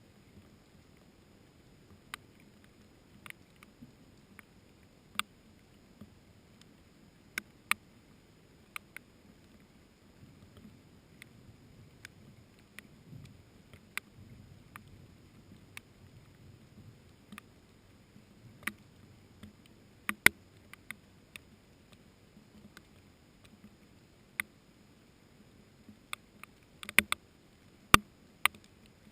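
Sparse, irregular raindrops tapping as single sharp drips, with a quick cluster of louder taps near the end.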